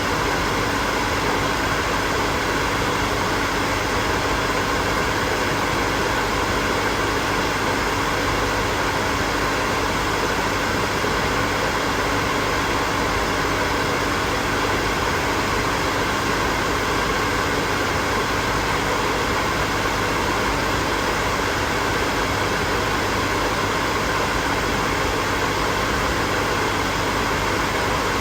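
Hair dryer running steadily: an even rushing of air with a faint steady hum under it, unchanging throughout.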